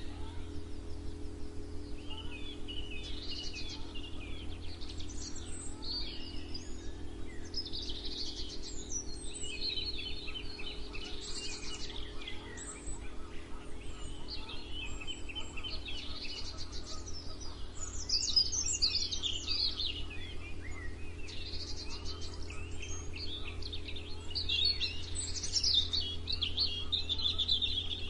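Several birds chirping and singing in overlapping short calls and trills, busiest toward the middle and near the end. A steady low hum runs underneath.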